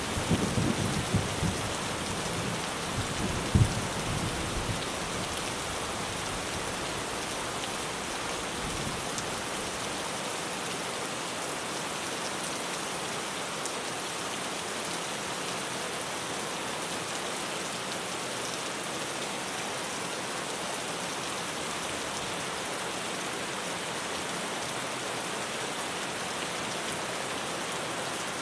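Steady heavy rain drumming on a tin roof. A thunder rumble in the first few seconds, with one sharp crack, dies away within the first ten seconds.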